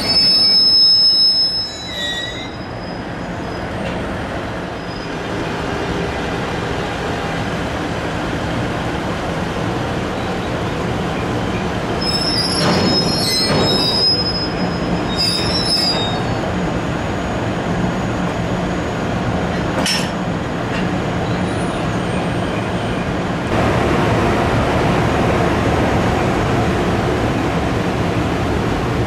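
Freight train of tank cars and container wagons rolling past with a steady rumble of wheels on rail. High-pitched wheel squeal rises several times, near the start and again in the middle.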